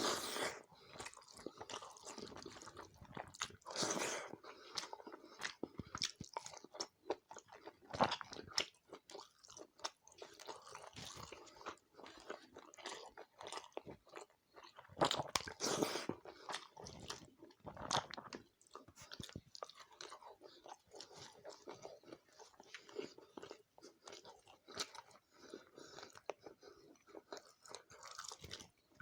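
A person chewing and biting food close to the microphone, with irregular crunches and clicks and a few louder bites.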